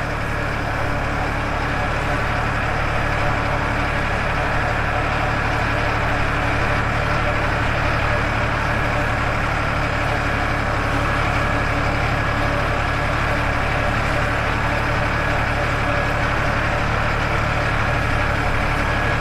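Farmtrac 60 tractor's diesel engine running steadily at an even speed.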